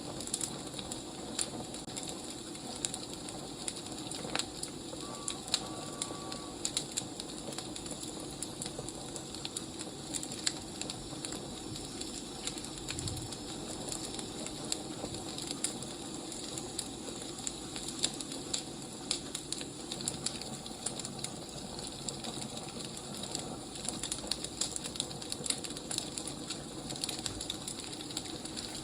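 Wood fire burning, with irregular sharp crackles and pops over a steady low hiss.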